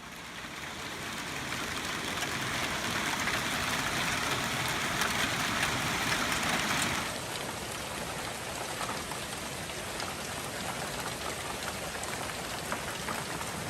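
Heavy rain pouring down in a steady hiss, fading in at the start. About halfway through it changes abruptly to a quieter, thinner rain sound.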